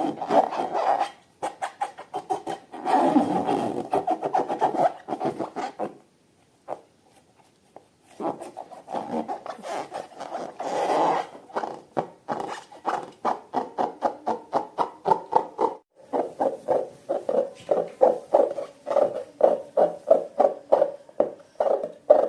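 Slime being squished and kneaded by hand: a fast run of wet clicks and squelches, a few each second, with a brief pause about six seconds in.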